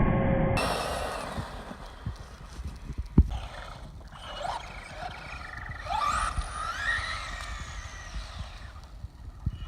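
Traxxas Rustler RC truck's Castle Creations brushless electric motor whining, its pitch rising and falling sharply as the truck accelerates and slows, with a few sharp knocks. A louder, muffled sound cuts off abruptly about half a second in.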